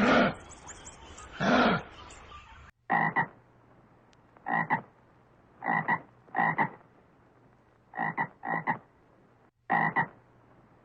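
Short croaking animal calls repeated about every second or so. After an abrupt change of background a little under three seconds in, the calls turn shorter and some come in quick pairs.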